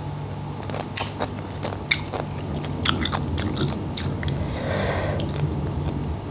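Close-miked chewing of a mouthful of seafood dressed in fish sauce: wet, crunchy bites and mouth clicks, with a few sharp ones about a second apart.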